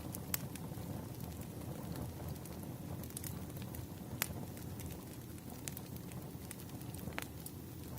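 Crackling wood fire: irregular sharp pops and snaps over a low, steady rumble.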